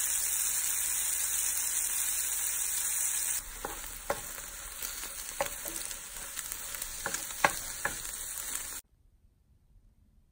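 Tomato wedges sizzling in hot oil in a nonstick frying pan. About three seconds in, the sound drops to a quieter sizzle of scrambling eggs, with a wooden spatula scraping and tapping the pan several times. It cuts off suddenly near the end.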